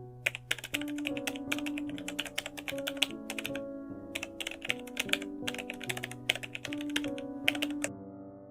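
Rapid key clicks of typing in two long runs, with a short pause just before the middle. Underneath is soft background music of sustained tones.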